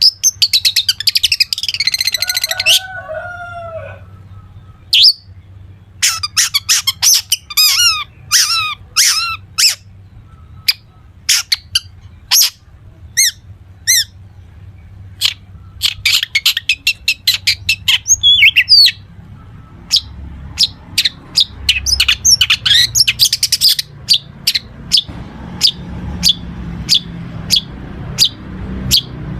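Long-tailed shrike (cendet) singing hard: strings of sharp repeated notes and fast trills, laced with mimicked calls of other birds.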